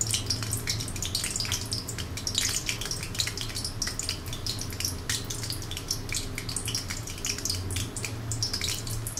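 Whole green chilies sizzling in hot oil, with a steady, irregular run of small crackling pops.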